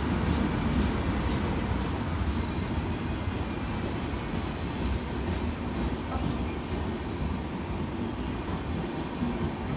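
Passenger train's coaches rolling along the platform: a steady low rumble of wheels on rail, with brief high squeaks every second or two.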